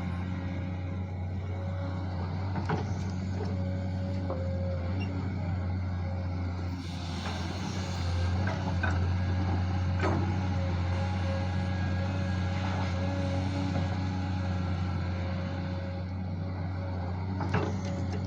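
A JCB digger's diesel engine running steadily, with a few sharp knocks scattered through and a louder rush of noise about seven to nine seconds in.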